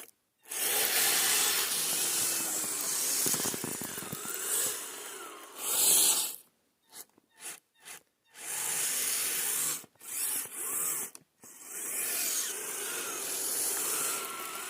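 RC crawler truck's electric motor and geared drivetrain whining, rising and falling in pitch with the throttle, mixed with a rough rubbing noise, running in spurts that cut off abruptly several times.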